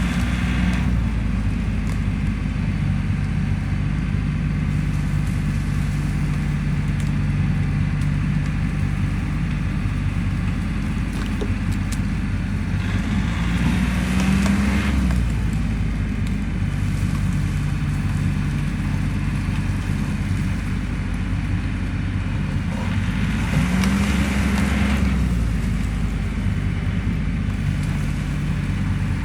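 Tractor engine running steadily, revving up twice under load as it pushes against the fallen tree.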